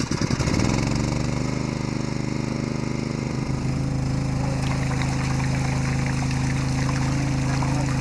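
An engine running steadily at a constant speed. It comes in suddenly, its pitch rising briefly over the first half second before it settles.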